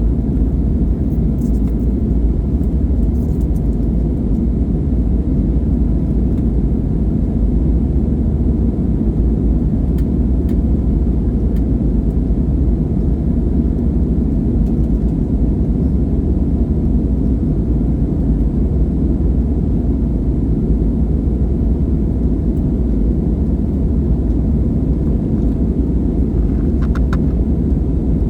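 Steady low rumble of a jet airliner's engines and rushing air, heard inside the passenger cabin, with a few faint clicks near the end.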